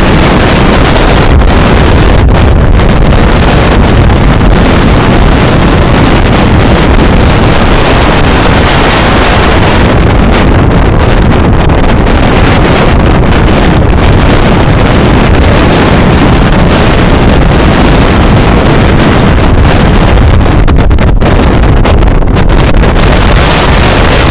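Strong storm wind blasting the microphone: a loud, continuous rush of noise with a heavy low rumble, near full level throughout.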